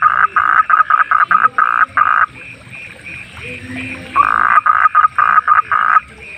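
A frog calling loudly in long trains of rapid, evenly pitched notes. One train runs until about two seconds in, then after a pause a second train lasts nearly two seconds. A faint steady chorus of other night creatures sounds behind it.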